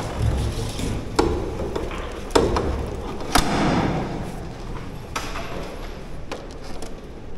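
Irregular knocks and thuds, five or six spread over several seconds. The loudest, about halfway through, is followed by a short rushing noise.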